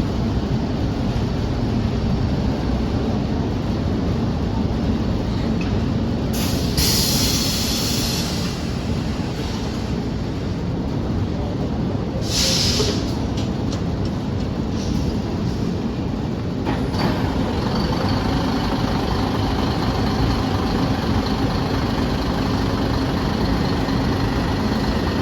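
Articulated city bus with a low diesel rumble, letting off two loud air hisses from its air system. About two-thirds of the way in its engine starts, with a steady hum and a thin whine that run on as it idles.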